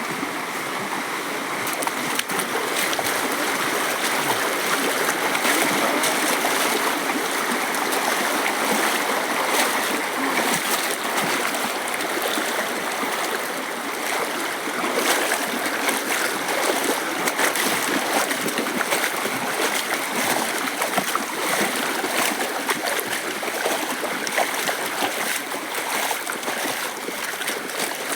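A small stream flowing steadily, with brief splashes scattered through.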